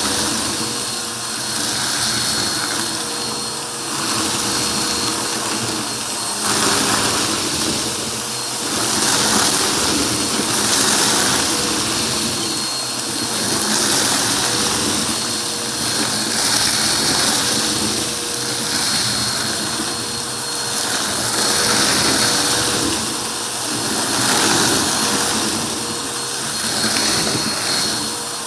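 Vacuum cleaner running, a steady rush of air with a constant high whine, its loudness swelling and dipping about every two seconds.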